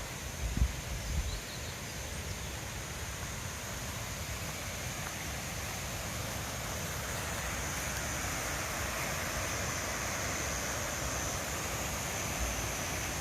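Steady outdoor rushing noise, wind or flowing water, with a steady high-pitched band above it. A few low thumps on the microphone come about half a second to a second and a half in.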